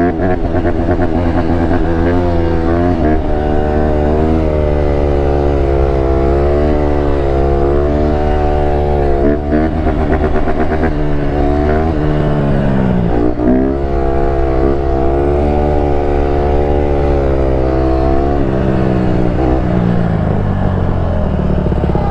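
A 150cc dirt bike's single-cylinder engine running while it is ridden, revs rising and falling steadily. About thirteen seconds in the revs drop sharply, then climb again.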